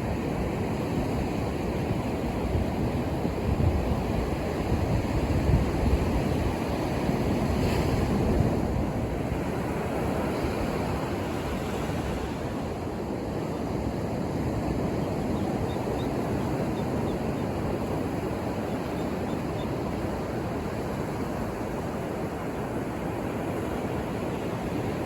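Ocean surf breaking on a beach, a steady rush of waves that swells louder for a few seconds early on and then settles, with some wind on the microphone.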